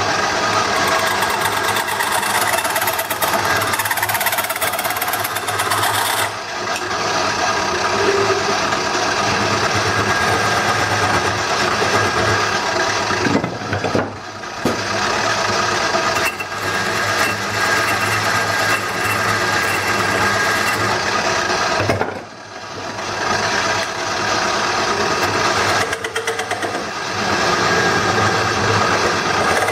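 Wood lathe running while a turning tool cuts the spinning bowl blank to shape its tenon: a steady scraping hiss over the motor's hum. The cut eases off briefly twice, about halfway through and again about two-thirds of the way in.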